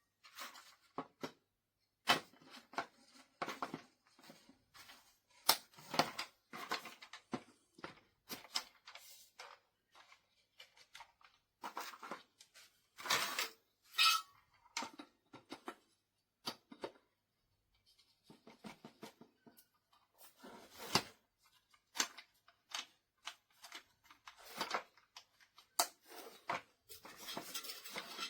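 Irregular handling noise: rustling, tearing and scattered clicks and knocks, as of packaging and parts being handled.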